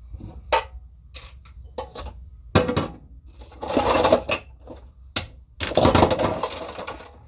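Dishes and silverware clinking and clattering as they are handled and loaded into the racks of a countertop dishwasher: several sharp knocks, the loudest about two and a half seconds in, then two longer bouts of rattling around four and six seconds in.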